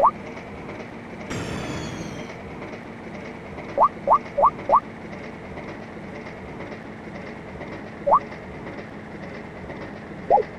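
Train running along the track, a steady rail rumble with clickety-clack. About a second in there is a short hiss with high falling tones. Short rising squeaky chirps come four in quick succession around four seconds in and once more near eight seconds.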